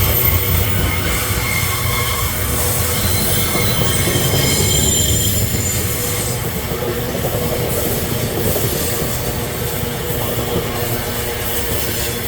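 Freight train wagons rolling past with steel wheels squealing against the rails over a steady low rumble; the high squeal tones come and go, strongest in the first half.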